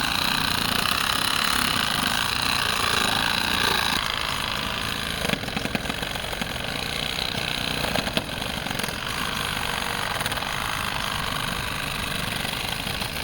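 Cordless reciprocating saw (Sawzall) cutting through a downed tree trunk, running continuously with a rough, rasping buzz.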